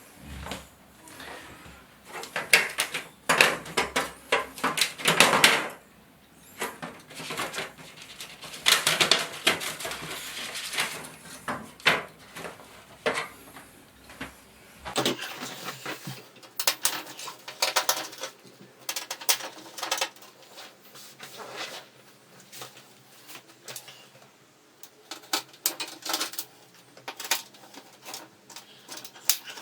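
Plastic and metal parts of a flat-screen LED TV being handled during disassembly: irregular clicks, knocks and scraping or rustling.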